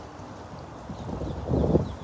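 Wind buffeting the microphone while riding a bicycle, a low rumble that swells suddenly about a second and a half in.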